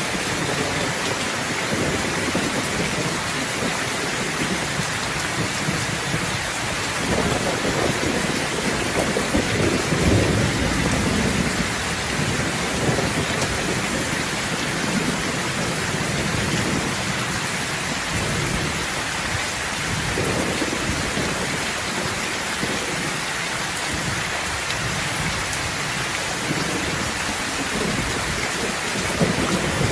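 Heavy rain pouring steadily, with rolls of thunder rumbling underneath that swell several times, most strongly around ten seconds in and again near the end.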